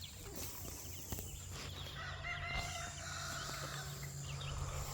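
A rooster crows faintly once, starting about two seconds in and held for about a second and a half.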